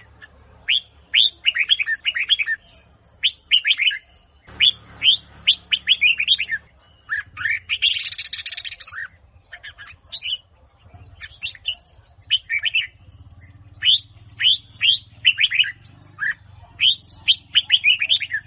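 Red-whiskered bulbul singing: repeated short phrases of quick, clear downward-sweeping notes separated by brief pauses, with one harsher, scratchier phrase about eight seconds in.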